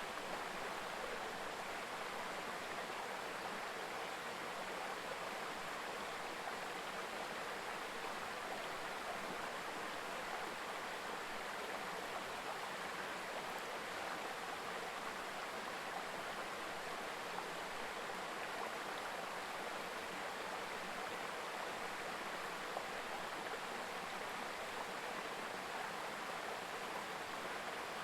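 Mountain river babbling over stones, a steady, even rush of flowing water.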